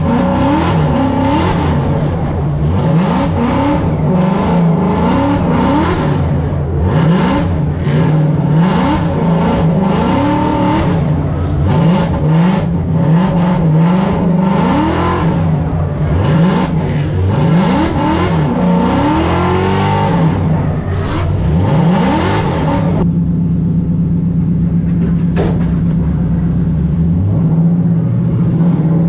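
Supercharged Ford Mustang drift car's engine revving hard, its pitch rising and falling again and again, then settling to a steady even note about 23 seconds in.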